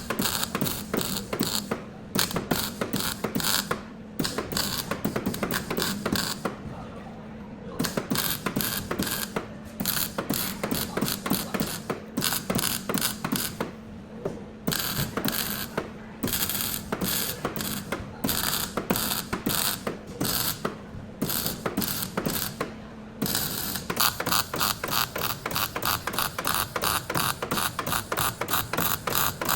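Rapid mechanical clicking from a workshop tool in repeated runs broken by short pauses, over a steady low hum.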